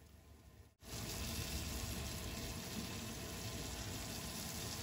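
Frozen small prawns sizzling as they hit hot oil and onion-tomato masala in a frying pan. The sizzle starts suddenly about a second in and stays steady.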